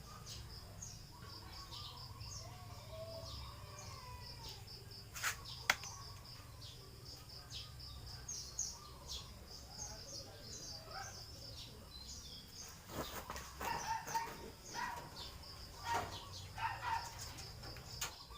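Rural outdoor ambience: a steady pulsing insect trill throughout, with scattered short bird chirps and a couple of sharp knocks about five seconds in. Louder bird calls come in a cluster in the last few seconds.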